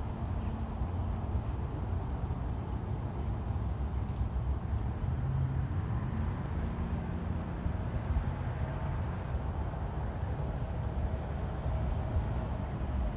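Faint, short, high bird chirps repeating every second or so over a steady low rumble.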